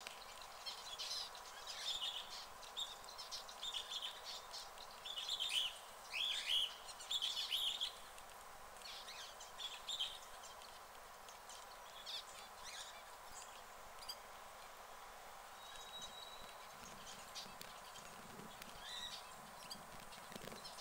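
Small birds chirping in quick runs of high calls, busiest in the first eight seconds and sparser after.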